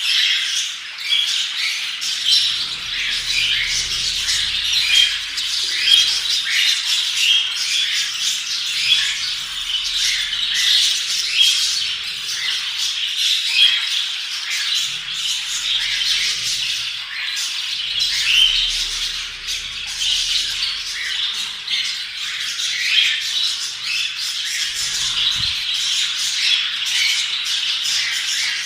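Several budgerigars chattering and squawking together, a continuous stream of overlapping short, high chirps and warbles.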